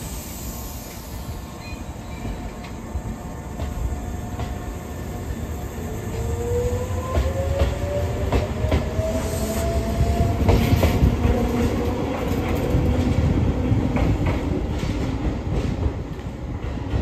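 Tobu 8000 series electric train pulling out and accelerating away: a low rumble that grows louder, a whine rising in pitch as it gathers speed, and wheels clicking over rail joints and points.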